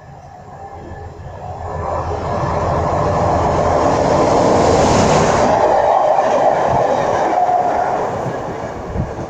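Diesel-hauled freight train passing through at speed: its noise builds over a couple of seconds, is loudest around the middle, then eases off as the wagons run past.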